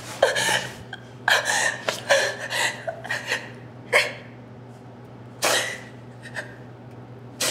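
A person's sharp, breathy gasps and catching breaths, about six of them at irregular intervals, over a steady low hum.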